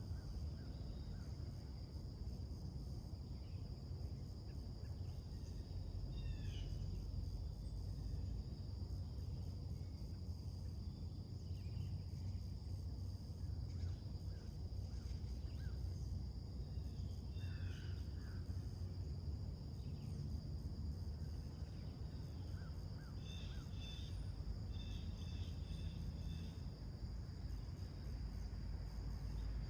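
A continuous, steady high-pitched insect chorus over a low, even rumble. Songbirds call a few times in short chirps, with a quick run of repeated notes near the end.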